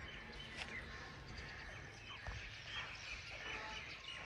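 Faint birds chirping, scattered short calls over low outdoor background noise.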